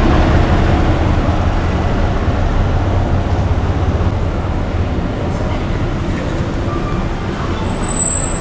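Steady rumble of a moving vehicle, with a short high whine about eight seconds in.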